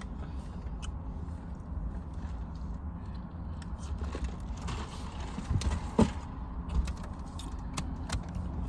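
Eating sounds: chewing and fast-food packaging being handled, as scattered small clicks and creaks over a steady low hum, with one sharper knock about six seconds in.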